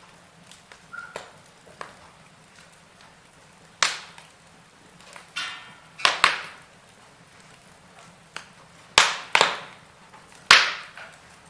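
Wood fire in a fireplace crackling: sharp pops and snaps over a low steady hiss, with small ticks at first and about six loud pops in the second half.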